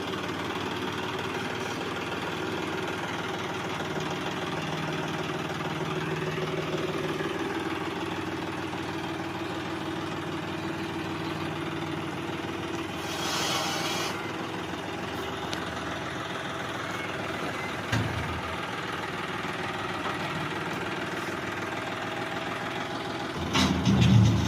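John Deere tractor's engine running steadily at low speed, with a short hiss about halfway through and a single knock a few seconds later. Just before the end the engine gets markedly louder.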